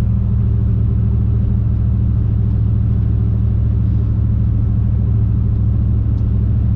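410 cubic-inch Magnum stroker V8 and its exhaust in a 1996 Dodge Ram 1500 pickup, heard from inside the cab with the windows up while driving, a steady low drone with no change in engine speed.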